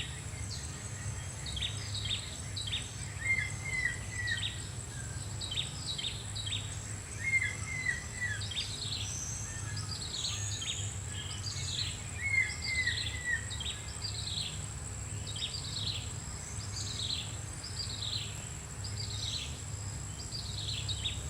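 Wild birds calling: many short, falling chirps repeated throughout, with occasional groups of three or four quick, lower notes during the first half. A steady high insect drone runs underneath.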